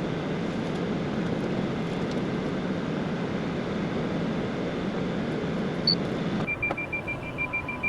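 Excavator engine running steadily. About six and a half seconds in it cuts off suddenly, giving way to a rapid, even string of high electronic beeps.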